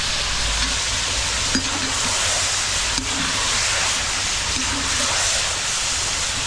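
Chicken frying in a pot, a steady sizzle, with a couple of light clicks, one about a second and a half in and one about three seconds in.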